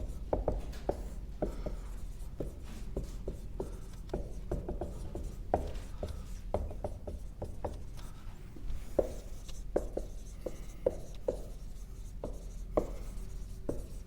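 Marker writing on a whiteboard: irregular short taps and strokes as words are written out.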